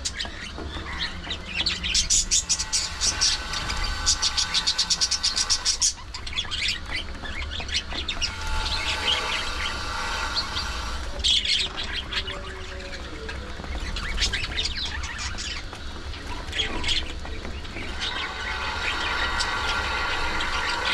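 A flock of budgerigars chirping and chattering, with a run of fast, sharp chirps about two to six seconds in, over a steady low hum.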